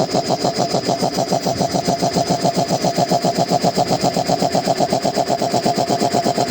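Reciprocating piston air compressor running steadily, its pump giving a rapid, even pulsing beat.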